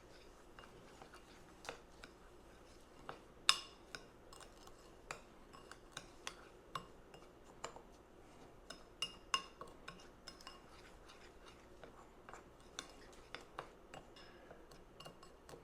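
Utensil clinking and tapping against a bowl while stirring panko crumbs and shredded cheese into melted butter: faint, irregular clinks, some ringing briefly.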